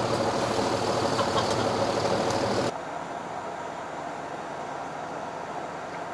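Steady engine and hull noise aboard a fishing boat, which drops suddenly to a quieter steady rumble about two and a half seconds in.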